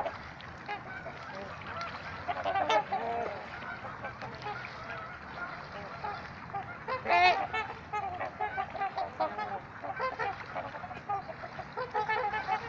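Trumpeter swans calling: horn-like honks in scattered bouts, a few about two and a half seconds in, a loud cluster near seven seconds, and overlapping calls building up near the end.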